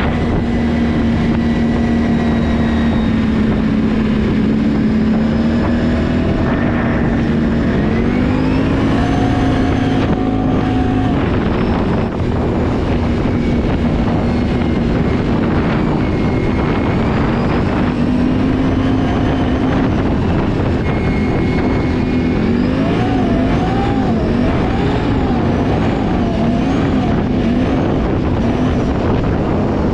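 Can-Am ATV engine running while riding, with a steady drone. Its pitch climbs about a quarter of the way in, then wavers up and down near the end as the throttle is eased on and off.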